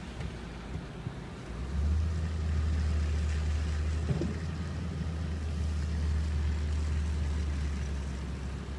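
Low, steady rumble of a car driving, setting in about a second and a half in, with a brief squeak near the middle.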